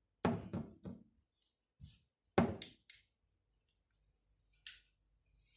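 Several short knocks and clunks of small objects being handled, the loudest about two and a half seconds in, with a brief hiss near the end.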